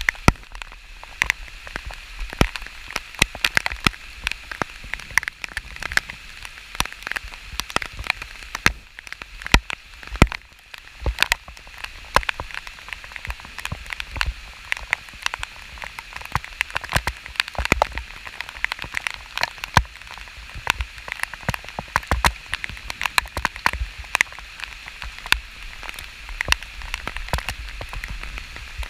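Steady rain falling, with many sharp, irregular drop impacts close to the microphone.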